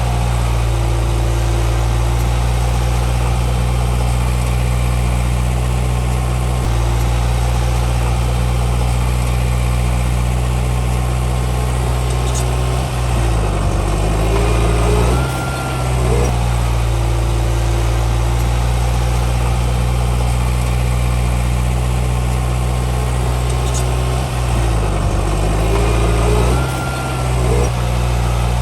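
Heavy diesel engine of a Komatsu D31P bulldozer running steadily. Twice, a little before halfway and again near the end, its note shifts and dips as the load on it changes.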